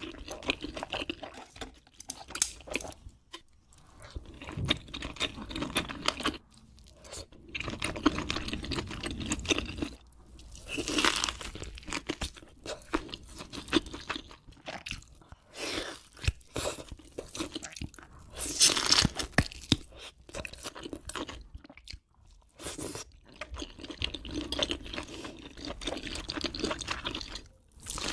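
Close-miked eating: crunchy food being bitten and chewed, with crackling crunches in bursts and short pauses between mouthfuls.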